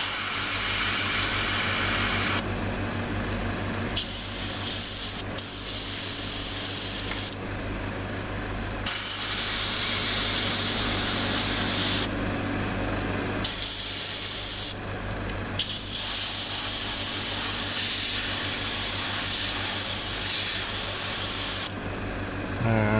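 Airbrush spraying paint: a loud hiss in about five on-off bursts of one to six seconds each, over a steady low hum.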